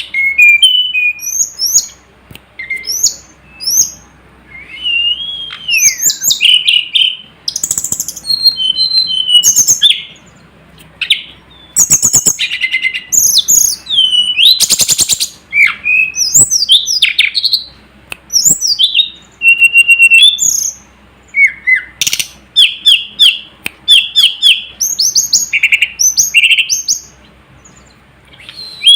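Tledekan gunung (sulingan gunung) songbird singing loud, varied phrases of quick high whistles and chirps, with fast rising and falling slurs and sharp clipped notes, broken by short pauses.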